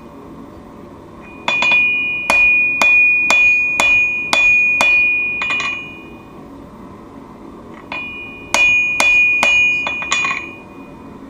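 Hammer blows on steel over an anvil during knife forging, with a clear ringing tone after each strike. The blows come in two runs of roughly two a second, with a pause of about two seconds between them.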